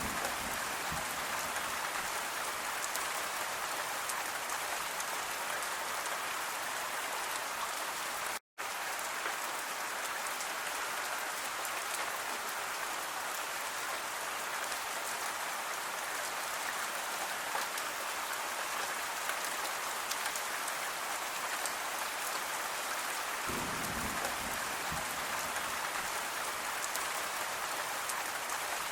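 Steady rain falling, an even hiss that cuts out completely for a split second about eight seconds in. A faint low rumble comes about three-quarters of the way through.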